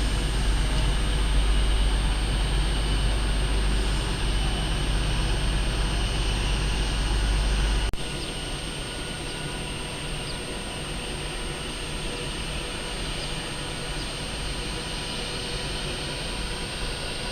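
Train noise on a railway platform: a heavy low rumble that cuts off abruptly about eight seconds in, followed by a quieter steady hum and hiss.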